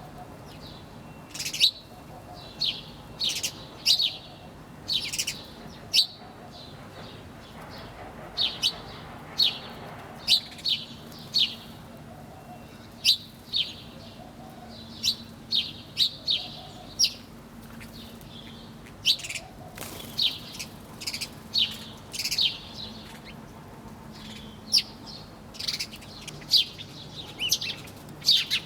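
Small songbirds chirping: short, sharp, high chirps that come in irregular clusters, often several a second, over a faint steady low hum.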